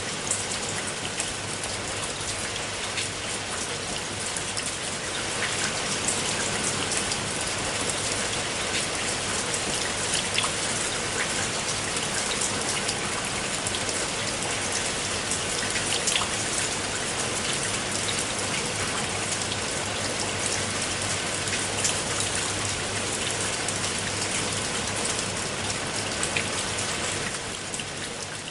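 Steady rain falling, a dense hiss with many separate drop hits standing out, a little louder from about five seconds in.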